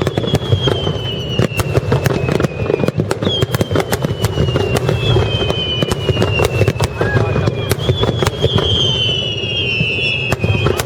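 Aerial fireworks going off in a rapid string of sharp bangs and booms over a low rumble. Several long whistling shells slide slowly down in pitch among the bangs.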